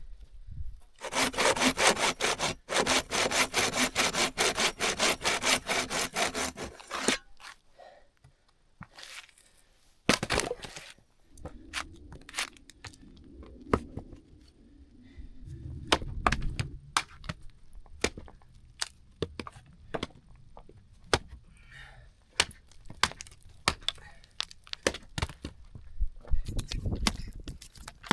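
Saw cutting through a wooden branch in fast, even strokes for about six seconds, then a sharp crack and a run of snaps and clicks as branches are broken up for firewood.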